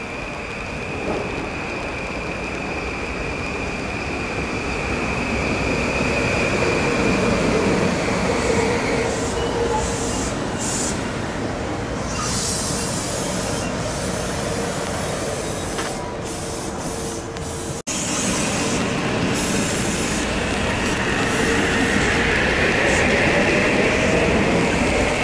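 Metro-North M8 electric multiple-unit train running in along the station platform: wheels rumbling on the rails, with a steady high whine for about the first nine seconds and shifting tones near the end.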